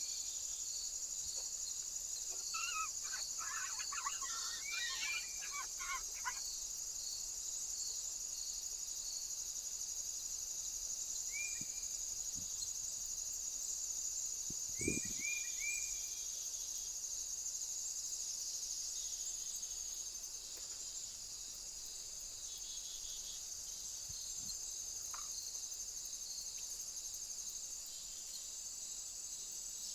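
Steady high-pitched chorus of insects, with a bird giving short chirps: a quick flurry a few seconds in, then a few single calls. There is one soft thump about halfway through.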